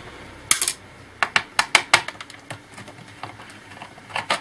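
Irregular sharp clicks and taps of a screwdriver and small screws against an old laptop's plastic case, a burst of them in the middle and a few more near the end, like a screw being backed out and handled.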